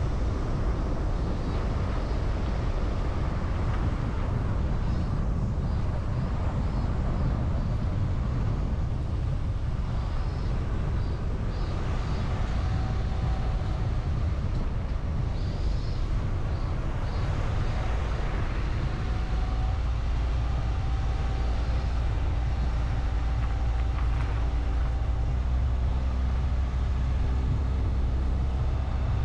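A car driving along a road: steady engine and tyre rumble. In the last few seconds an engine hum with a steady pitch stands out.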